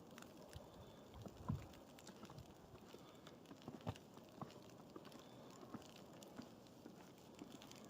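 Faint footsteps crunching in snow, an irregular scatter of soft crunches and ticks, with two louder dull thumps about a second and a half and four seconds in.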